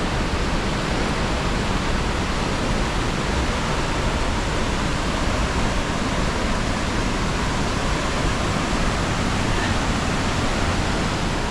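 Large waterfall close by: a steady rush of falling water crashing into its pool.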